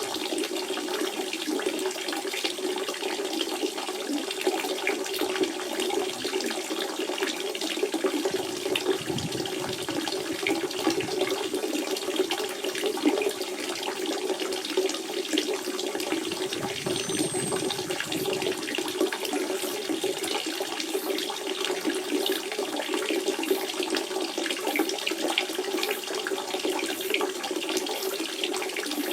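Natural spring water running and trickling steadily, a constant gurgling flow.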